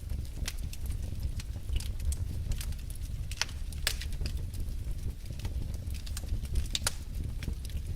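Wood logs burning in a fireplace: irregular crackles and snaps over a steady low rumble of the fire.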